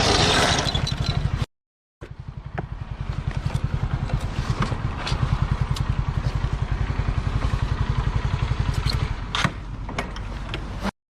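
A motorcycle engine running with a steady, evenly pulsing beat, with a few sharp clicks over it. It is preceded by a louder rush of noise that cuts off abruptly after about a second and a half.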